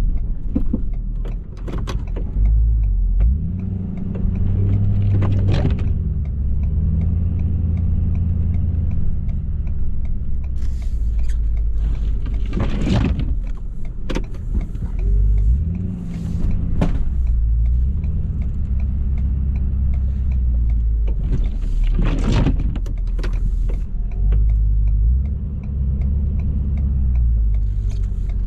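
Ford F-350's 6.7-litre Powerstroke V8 turbodiesel working while plowing snow, its note repeatedly rising and falling as the truck pushes and backs up. There are a few sharp knocks along the way.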